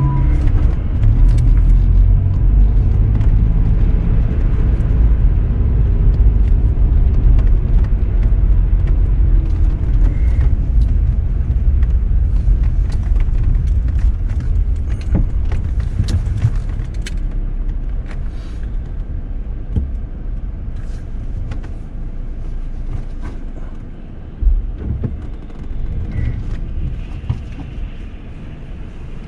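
Car driving: a steady low road-and-engine rumble that gradually fades as the car slows, with a single thump about three-quarters of the way through.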